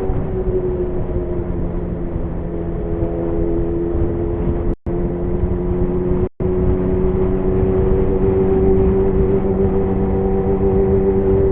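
Kawasaki Zephyr 750's air-cooled inline-four running steadily at cruising revs through an MRS muffler fitted with a louder inner silencer; the pitch sags a little, then climbs again after the middle. The sound cuts out twice for a split second, about five and six and a half seconds in.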